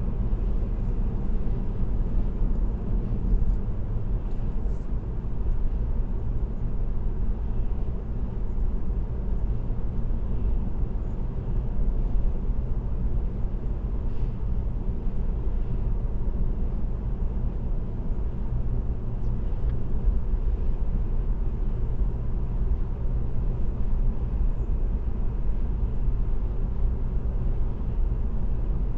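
Steady low rumble of a car cruising at highway speed: tyre and road noise with engine hum, heard from inside the cabin.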